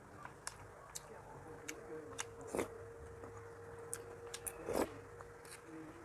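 Close-miked eating sounds: chewing and mouth noises with scattered sharp clicks, two louder ones about two and a half and five seconds in, as a metal spoon scrapes and knocks in a steel pan of curry.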